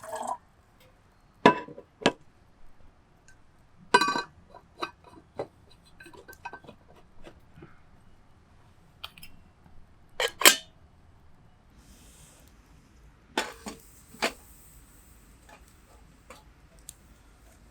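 Metal camping kettle being handled, its parts clinking and knocking together in a series of separate sharp clinks, a couple of them ringing briefly.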